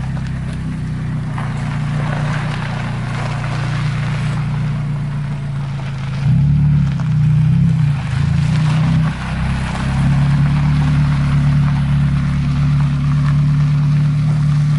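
ND Mazda MX-5 Miata's four-cylinder engine running through an aftermarket Invidia exhaust, a steady low drone as the car drives. The note wavers and shifts pitch about halfway through, then holds steady again.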